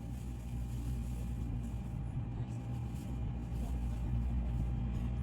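Steady low drone of a vehicle engine, with a faint constant whine above it.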